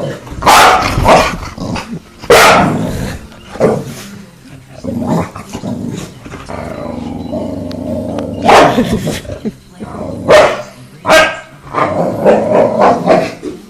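A dog barking in loud, sharp single barks, about six in all, with growling in the quieter stretches between them.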